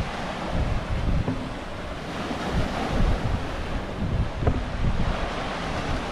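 Ocean surf washing in, with wind gusting hard against the microphone and rumbling in the low end; the wash of the wave swells through the middle and eases off.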